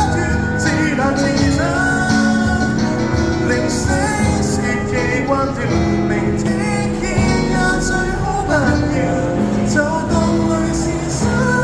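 Live band playing a Cantopop song, with guitar over a steady bass line.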